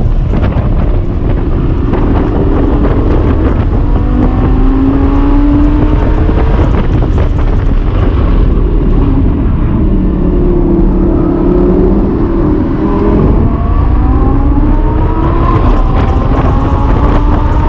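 Lamborghini Gallardo LP570-4 Superleggera's V10 engine at full track pace, heard from inside the cabin. Its pitch climbs under acceleration, drops as the car slows for a corner about ten seconds in, then climbs again near the end. A steady low wind and road rumble runs underneath.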